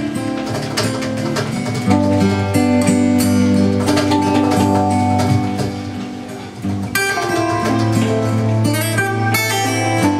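Live instrumental music led by acoustic guitar, plucked and strummed over sustained low bass notes; the playing drops briefly a little past the middle, then comes back in full.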